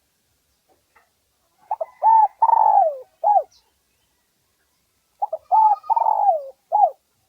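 Spotted dove cooing: two phrases a few seconds apart, each a couple of short coos, a longer coo that falls in pitch, and a short final coo.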